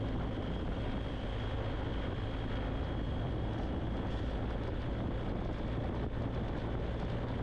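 BMW R1250GS Adventure's boxer-twin engine running at a steady cruise, with wind and road noise, heard through a helmet com-unit microphone.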